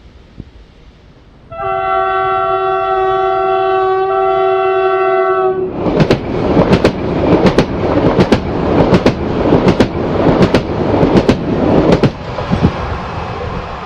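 Train horn sounding one long blast of several notes at once, about four seconds long. Then a train passes close by, its wheels clacking rhythmically over rail joints, dropping to a lower rumble about twelve seconds in.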